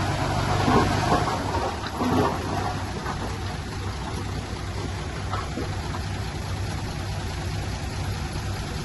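Heavy diesel earthmoving machinery running steadily, a low engine hum under a broad rushing noise.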